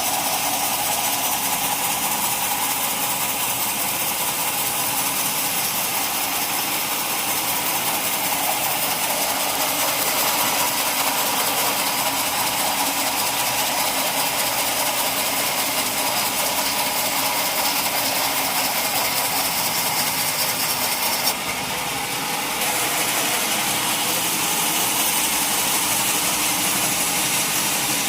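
Sawmill saw running steadily through a mahogany log, a continuous hiss strongest in the high range. About three-quarters of the way through, the highest part of the hiss drops briefly for a second or so, then returns.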